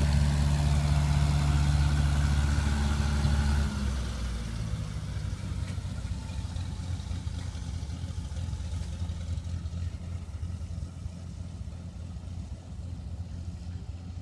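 Propeller engine of a Cessna 185 floatplane running at takeoff power with a steady low drone. About four seconds in it drops suddenly in level, then fades gradually as the plane draws away.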